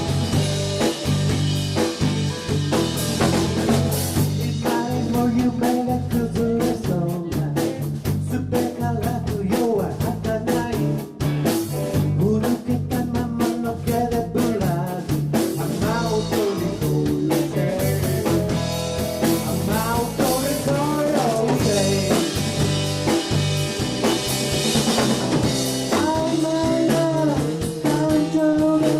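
A band playing a song with drum kit and guitar, and a voice singing over a steady beat.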